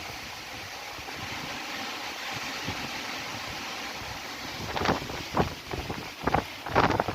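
Gale-force wind blowing steadily, with several sudden gusts buffeting the microphone in the last two seconds or so.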